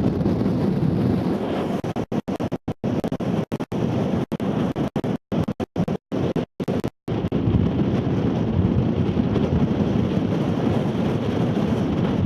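Strong wind buffeting the camera microphone in a low, rumbling rush. Between about two and seven seconds in, the sound cuts out to silence many times for split seconds.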